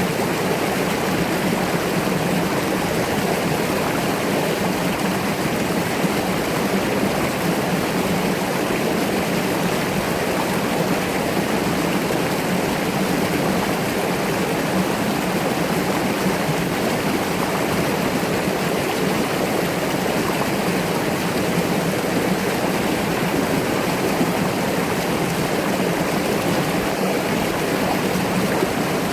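Mountain stream rushing over rocks, a steady, even rush of flowing water.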